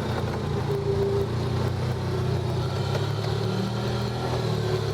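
Off-road vehicle engine running steadily at low speed.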